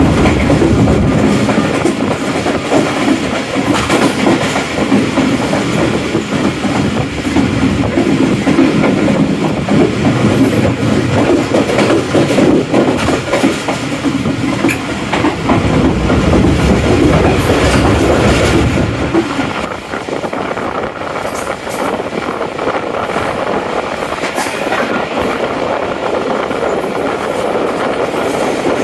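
Passenger train coach running along the track, heard from inside the coach: a steady rumble with wheels clattering over the rail joints. The deep rumble drops away about 19 seconds in.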